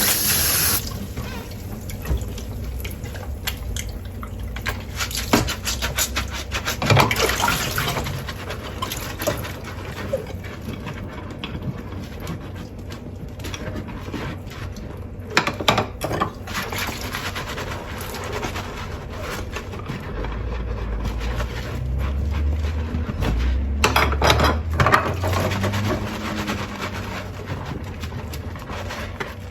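Tap water running into a kitchen sink while dishes are washed by hand, with scattered clinks and knocks of crockery, clustered a few times.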